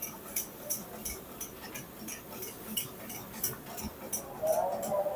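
Mutton karahi frying over a fire, with the hot oil and tomato purée crackling and spitting in quick, uneven pops.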